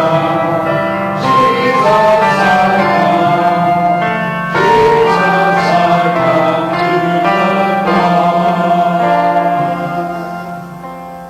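Voices singing a hymn together in a church, with a steady instrumental accompaniment underneath, dying away near the end.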